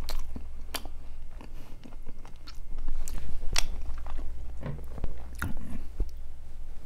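A person chewing a mouthful of pizza close to a clip-on microphone: scattered wet mouth clicks and small crunches.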